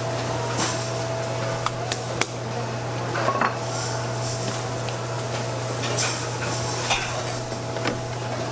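Bakery work clatter: scattered clinks and knocks of metal pans and utensils over a steady machine hum.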